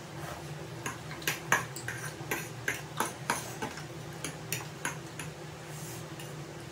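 Close-up eating sounds: sharp mouth clicks and smacks of chewing noodles, about three a second, stopping about five seconds in, over a steady low hum.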